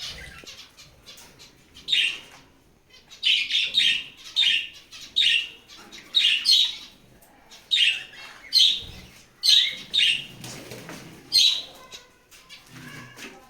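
Hagoromo budgerigars chirping and chattering: short, bright calls in quick clusters about every second, with brief pauses between them.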